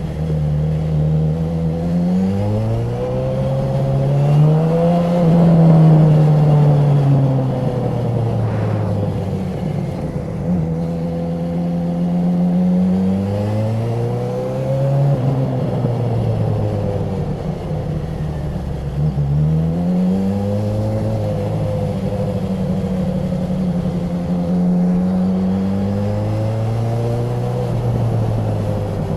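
Honda CB1000R's inline-four engine and exhaust under way, its pitch climbing under throttle and dropping back several times, with steadier cruising between.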